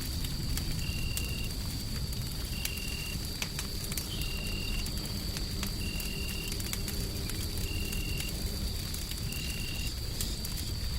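Wood fire crackling with scattered sharp pops over a steady low rumbling white noise. A faint steady high whine runs underneath, and a short high chirp repeats evenly about every second and a half.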